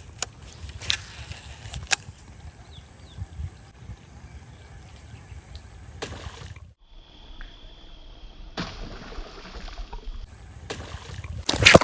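Water sloshing and light splashing as a fishing lure is cast again and worked across the water, with a few sharp clicks.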